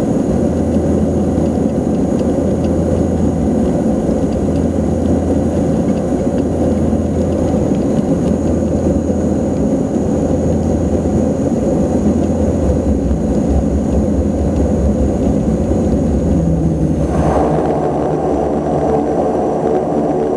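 Antonov An-24's twin turboprop engines running with a loud, steady drone. About seventeen seconds in, the sound changes suddenly to a different mix of steady tones.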